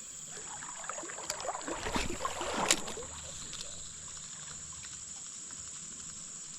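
Water splashing and sloshing for about two seconds, with a sharp crack near the end of it, over the steady rush of a flowing creek and a constant high-pitched hiss.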